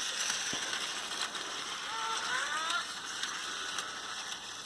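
Lego 9V train running along its track: a steady whirring rattle of the small motor and wheels on the rails, with a faint rising tone about two seconds in.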